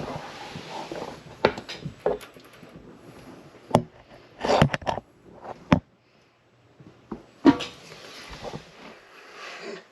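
Hard parts being handled by hand: a run of sharp knocks and clacks, loudest in the middle and again a little later, with rustling between them.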